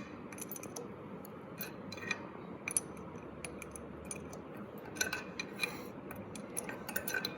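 Hand tools and metal engine parts clinking and clicking irregularly, a scatter of light sharp metal-on-metal knocks.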